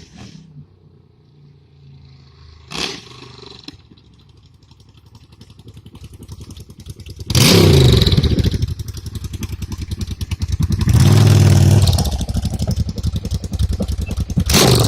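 Yamaha motorcycle engine coming closer and getting louder, with a loud burst of revs about seven seconds in, the pitch sliding down, and a second loud stretch of throttle about eleven seconds in.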